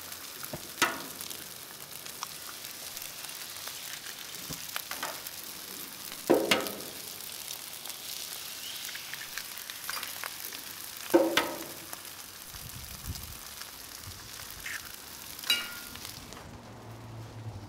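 Eggs, rice and diced pork belly frying on a hot flat-top griddle with a steady sizzle. Four brief, sharp, louder moments break through as more eggs are cracked and dropped onto the hot surface.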